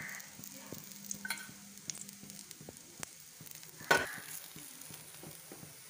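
Potato adai frying in oil in a nonstick pan: a soft, steady sizzle with scattered small crackles, and one sharper pop about four seconds in.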